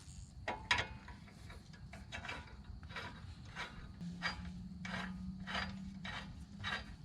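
Slide hammer being threaded by hand onto a bearing puller in a Ford 8.8 rear axle tube, giving a faint, regular metallic clicking and scraping about twice a second. A faint steady hum joins from about four seconds in.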